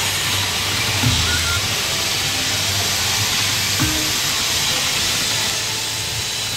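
Casino floor din: a steady hiss of background noise with a low hum, faint slot machine tones and a couple of small knocks.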